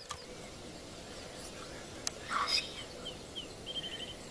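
Steady outdoor background noise with birds calling: a brief louder call about two seconds in, then a quick run of about six short, high chirps near the end.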